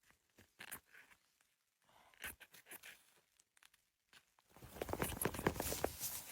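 Sparse crunching and crackling handling noises, which turn into a denser, louder run of crackling scrapes about four and a half seconds in.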